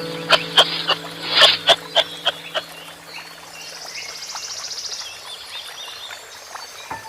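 Animal calls: a quick series of sharp clicking calls, then about halfway through a fast, high rattling trill, over held music notes that fade away.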